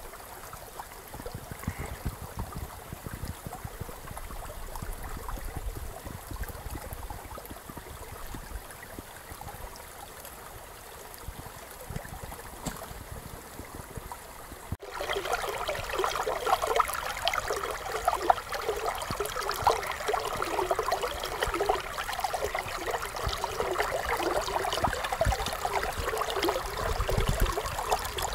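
Creek water running and gurgling over rocks. About halfway through there is a sudden cut to a louder, closer stretch of the stream with busier gurgling and splashing.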